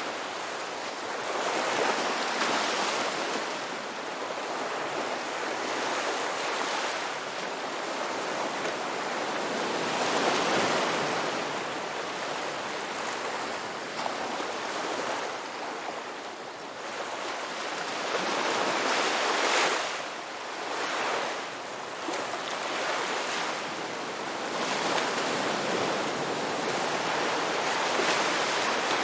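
Ocean waves breaking and washing on a rocky beach, the surf swelling and easing every few seconds.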